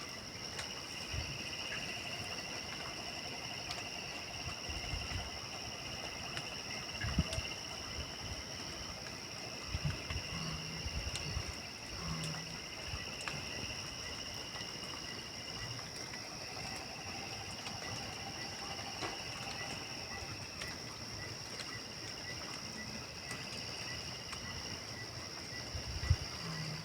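Night chorus of insects and frogs: one steady high trill, with lower calls that start and stop every few seconds. A few soft low thumps come through now and then.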